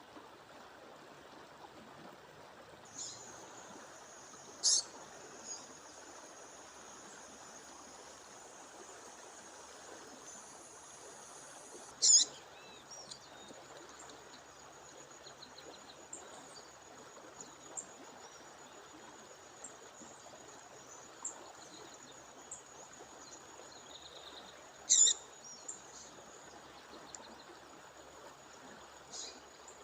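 Waterfall rushing steadily, with a bird giving short, sharp, high chirps: loudest once early, once near the middle and once near the end, with a few fainter notes between, over a thin, steady high tone.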